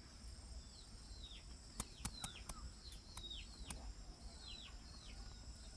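Faint bird chirping: a string of short chirps, each falling in pitch, about two a second, with a few sharp clicks in the middle and a steady thin high whine behind.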